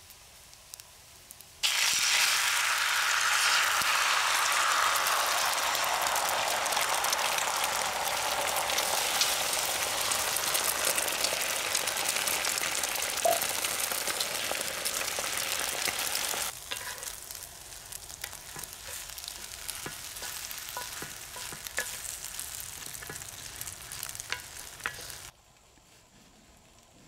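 Food frying in a cast-iron pan over a campfire: a loud steady sizzle that starts suddenly a couple of seconds in, then drops to a quieter sizzle with small pops about halfway through, and falls quieter again near the end.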